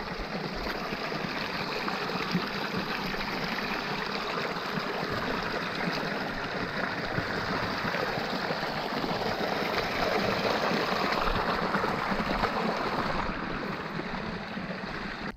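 Steady rain falling, an even hiss of rain on water and ground.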